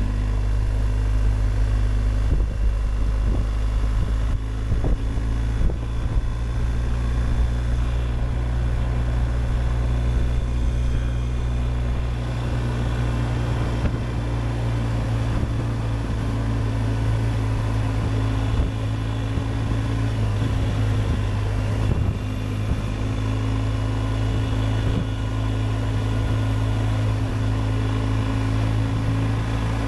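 BMW R1250GS Adventure's boxer-twin engine with an Akrapovic exhaust, running at a steady, even pitch as the motorcycle cruises at constant speed.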